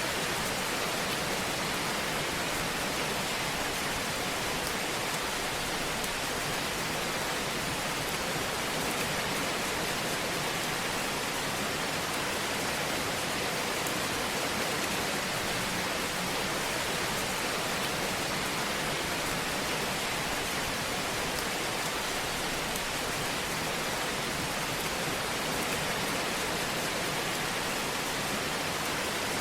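Fireplace ambience track: a steady, even hiss with no distinct crackles or pops standing out.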